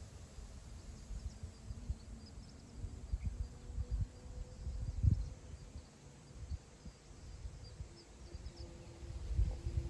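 Wind on the microphone over open grassland, an uneven low rumble that swells in gusts, strongest about halfway through and again near the end. Faint high chirping sits above it.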